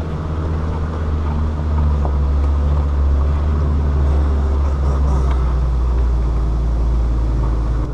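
Land Rover Defender 130's engine running steadily under load, a low drone as the heavily loaded vehicle climbs slowly up a steep gravel mountain road. The drone grows a little louder about two seconds in.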